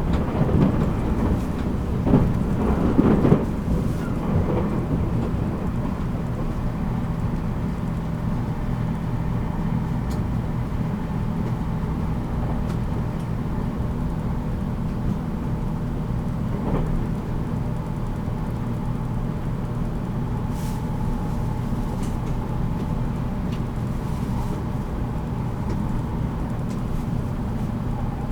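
Running noise heard inside a JR Kyushu 783 series electric multiple unit motor car at speed: a steady rumble of wheels on rail and a low hum, with a few louder clatters in the first few seconds.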